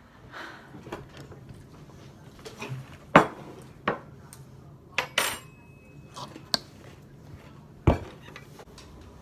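Household clatter of dishes and cutlery: about six sharp clinks and knocks, the loudest about three seconds in, with a short high steady tone in the middle.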